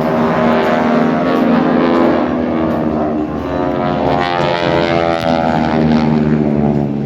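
Several airplane engines running close by, a steady drone of layered engine tones whose pitch slides partway through.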